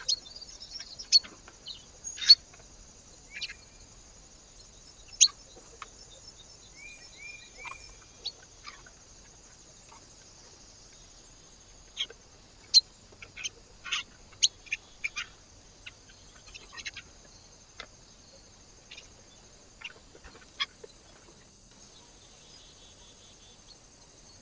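Small birds at a feeder: scattered short, sharp chips and clicks in irregular clusters, with a quick run of three short rising notes about seven seconds in, over a steady faint high hiss.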